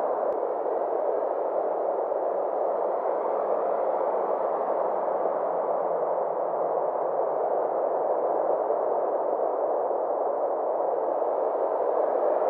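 Synthesized 'space' ambient sound: a steady wash of filtered noise centred in the mid-range, with its upper edge slowly sweeping down and back up over several seconds.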